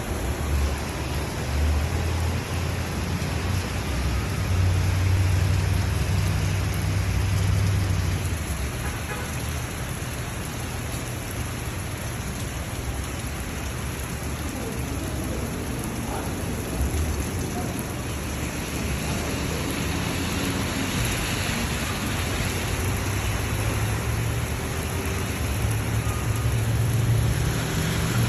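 Steady rain falling, a constant hiss, with a low rumble that swells a few seconds in and again near the end.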